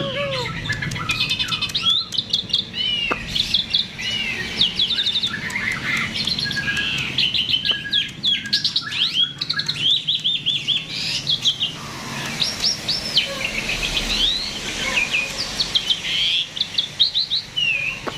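A starling (jalak) singing in full voice without a break: a fast, varied stream of whistles, chirps and quick rattling trills.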